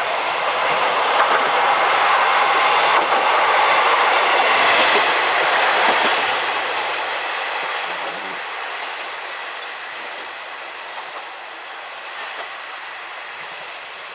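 Passenger train passing on the Kamisunagawa branch line, loudest about five seconds in, then fading as it moves away.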